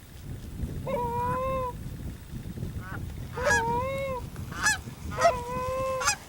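Goose calling: three long drawn-out moans, each a held honk of about a second with a short break at its start, coming about a second in, past three seconds, and near the end. The moans are blown on a hunter's goose call to draw in Canada geese.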